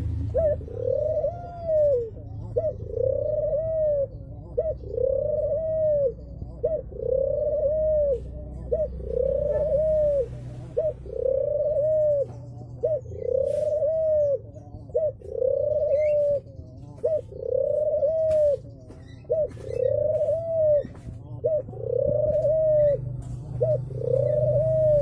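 Barbary dove (puter) cooing over and over in a steady series, about one arched coo every second and a half, each led by a short note. A low rumble runs underneath.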